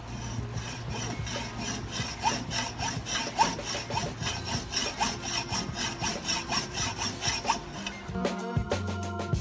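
Hand hacksaw cutting through a billet aluminium part, steady back-and-forth strokes about twice a second, stopping about eight seconds in. Background music continues underneath and is left alone at the end.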